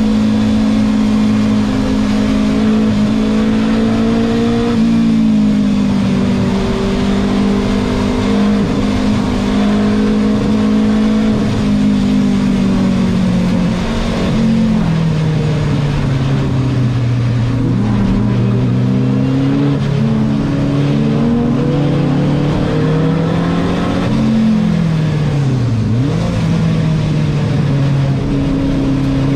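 Renault 5 Turbo 2's turbocharged four-cylinder engine heard from inside the race car's cabin while racing, its note holding steady for a few seconds at a time. The pitch steps down about halfway through, then dips sharply and climbs back near the end.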